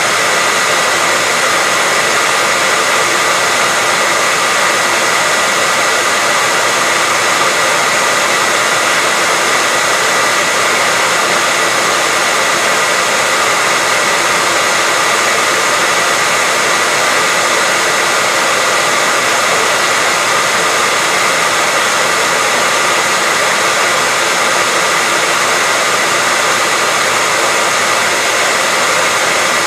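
Hair dryer running steadily: an even rush of blown air with a steady high whine, unchanging, used as white noise.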